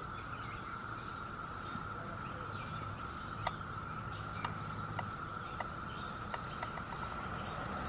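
Outdoor ambience: a steady, high-pitched insect drone, with faint bird chirps and a few light clicks.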